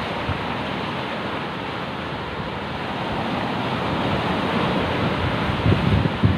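Sea waves and surf rushing steadily, with wind gusting on the microphone and growing stronger near the end.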